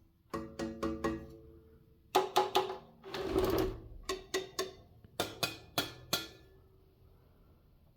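Metal parts of a vintage KDK all-metal electric fan being knocked or handled: about fourteen sharp strikes that ring briefly at a few fixed pitches. They come in clusters of three or four, with a longer rattling scrape in the middle.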